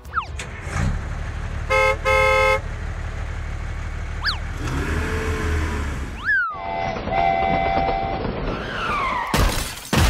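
Dubbed cartoon sound effects for a toy tractor: a low tractor engine running, two short horn honks about two seconds in, and sliding whistle effects. The engine sound cuts off suddenly a little past the middle.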